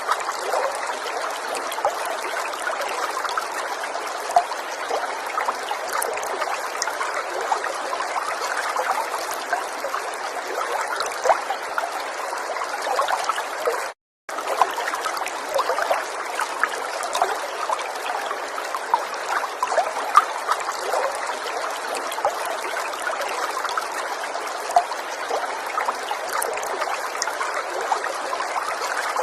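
River water running, a steady rush with many small trickles and splashes. The sound cuts out completely for a split second about halfway through.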